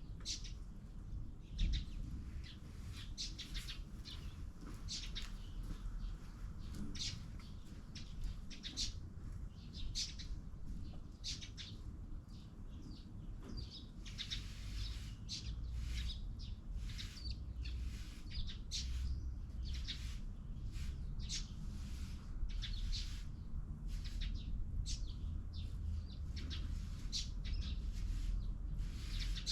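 Small birds chirping repeatedly in quick, short high calls, over a steady low rumble.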